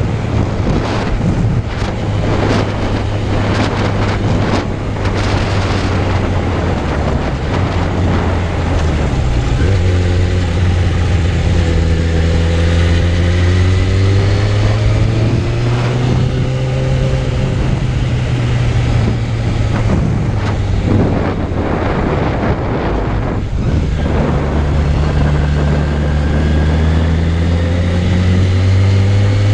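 Suzuki Bandit 600's inline-four engine running under way, its note climbing slowly as the bike accelerates. About two-thirds through the note drops away briefly, then rises again. Wind buffets the microphone, heavily in the first few seconds.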